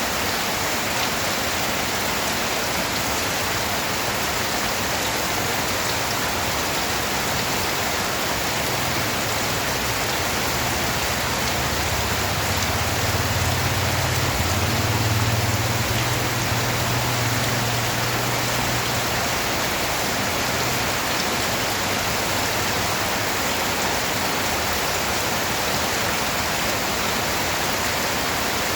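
Steady rain falling and pattering on surfaces. A low rumble swells up in the middle for several seconds and then fades back under the rain.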